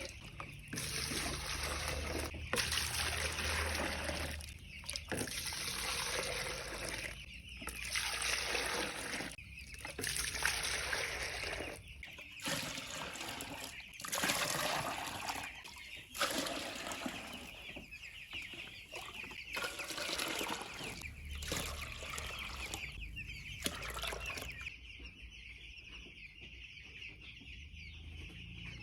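A flock of young chicks cheeping continuously. For most of the stretch, bursts of broad noise with short gaps come and go over the chirping. They die away in the last few seconds, leaving mostly the chirping.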